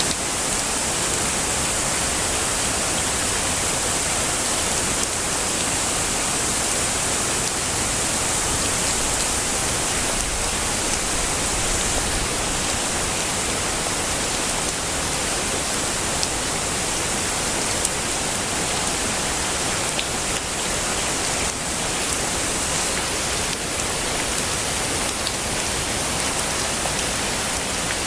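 Heavy rain falling steadily as a dense, even hiss, with a few faint drop ticks here and there.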